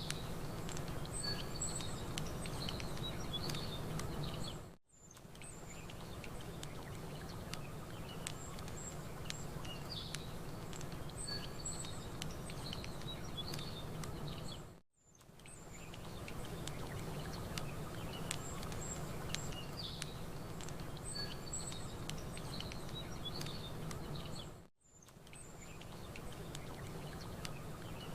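Small birds chirping and tweeting over a steady wash of campfire crackle and a low rumble, with scattered sharp pops from the fire. The whole bed dips away briefly and swells back about every ten seconds, three times, as a looped ambience track restarts.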